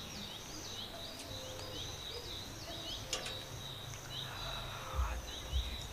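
Small birds chirping over and over, short high hooked calls several times a second. A single sharp click comes about three seconds in, and low thumps near the end.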